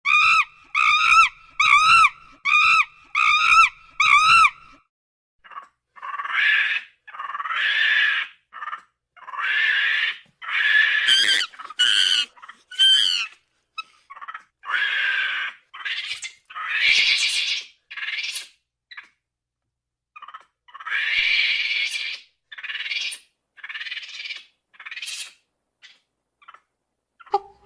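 Monkey calls: a quick run of short, pitched chirping calls, about two a second, then from about five seconds in a long irregular string of harsh screeching calls with short gaps between them.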